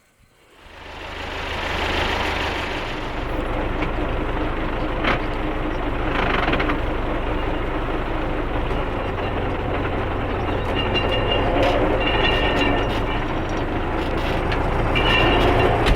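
Tractor under way, its engine running steadily, with the knocking and rattling of the towed field roller unit behind it.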